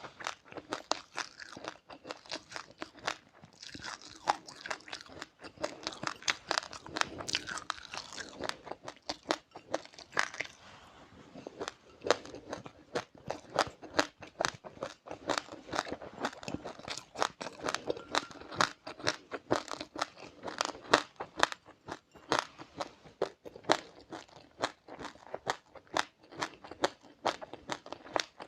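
A person chewing crunchy seeds close to the microphone: a steady run of sharp, crackly crunches, several a second.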